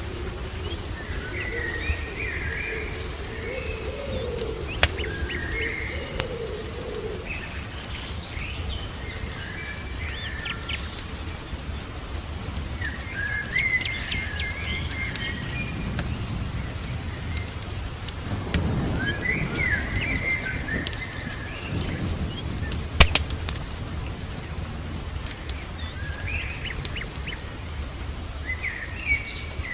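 Birds chirping and singing in short repeated phrases, with a lower warbling call in the first few seconds. Sharp crackles and pops of a wood fire are scattered through it, the loudest about 23 seconds in, over a steady low rumble.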